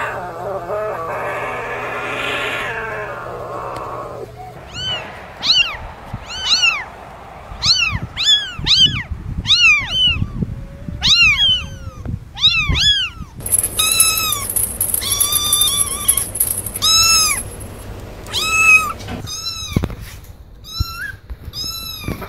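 Young kittens mewing over and over in short, high-pitched, arching cries, many calls in quick succession, after about four seconds of a rough, noisy sound at the start.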